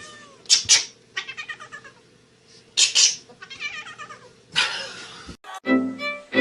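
A cat meowing and yowling in a string of drawn-out, bending calls, broken by a few short harsh bursts. Music starts about a second before the end.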